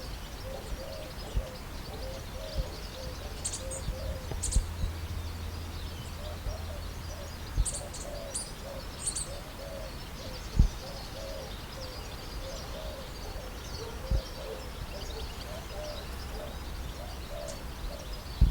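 Birds calling: low cooing hoots repeated steadily about twice a second, with a few high chirps in the first half. A few soft knocks come through, the sharpest about ten seconds in.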